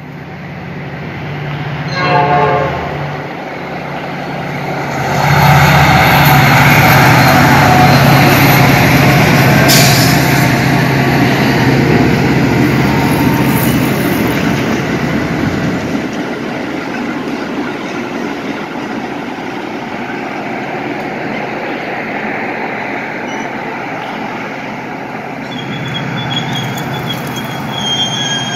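Metra commuter train passing close by on the tracks. The sound builds over the first few seconds and is loudest during the first half, with steady low tones. It then settles into an even rumble as the stainless-steel bi-level passenger cars roll past.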